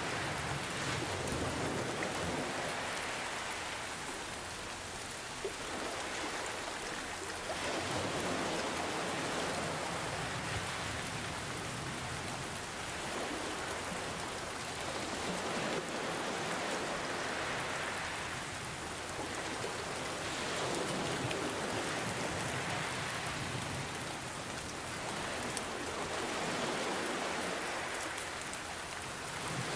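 Steady rain hiss mixed with ocean waves that swell and fade slowly about every five to six seconds.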